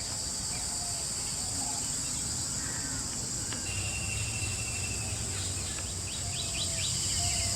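A steady, high-pitched chorus of forest insects, with scattered faint bird calls over it and a quick run of chirps about six and a half seconds in.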